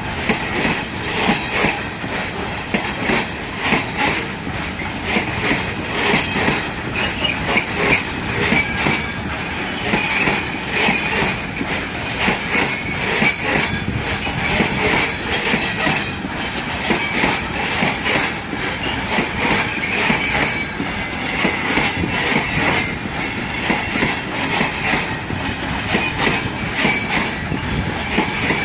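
Freight wagons rolling past, their wheels clacking over rail joints and points, with a wavering high wheel squeal over the top.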